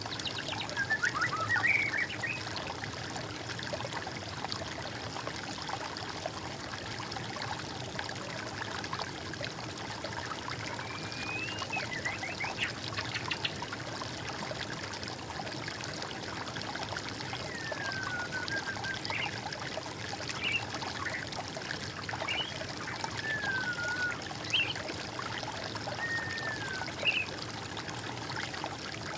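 Water trickling steadily, with birds calling now and then over it: short whistled notes that slide down or up in pitch, a few near the start, a couple around the middle and several more in the later part.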